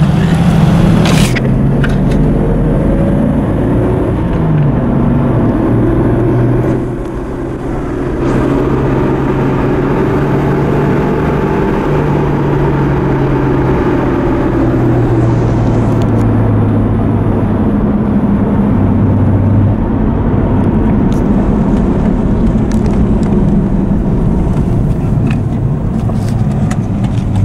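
1998 Jeep Cherokee's 4.0-litre inline-six engine and exhaust heard from inside the cabin while driving, the engine note rising and falling with speed and dipping briefly about seven seconds in.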